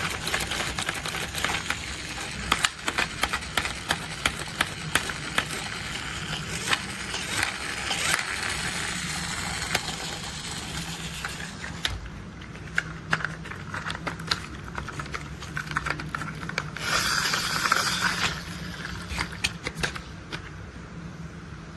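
Plastic toy construction vehicles being handled: a steady run of small clicks, knocks and rattles over a low steady hum, with a louder noisy rush about seventeen seconds in.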